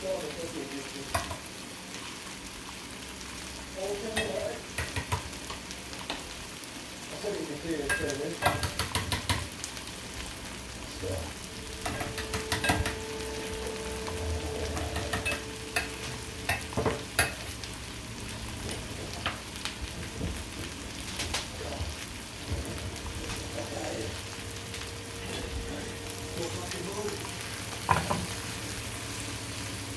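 Steady sizzle of food frying in hot oil, with repeated clinks and scrapes of a utensil stirring in a bowl.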